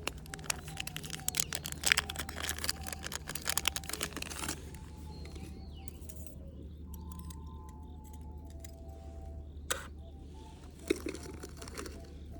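Rapid clicking and crackling for about the first four and a half seconds, then a soft, slow recorder melody with a couple of single clicks.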